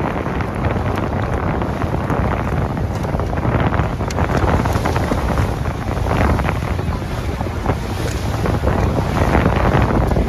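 Wind buffeting the microphone over the steady rush of a boat under way, with water and engine noise.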